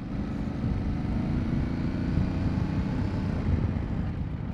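Aprilia Tuareg 660's parallel-twin engine running steadily as the bike is ridden up to speed, with a steady rush of wind noise over it.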